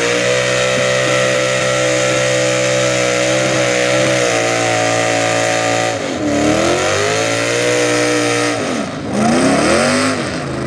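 Super stock two-wheel-drive pulling truck's engine held wide open at a steady high pitch for about six seconds, then the revs drop and climb back up twice.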